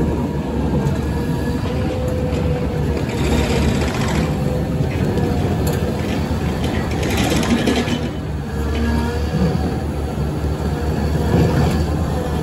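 Caterpillar 120M motor grader's diesel engine running steadily, with two louder rushes of noise in the middle.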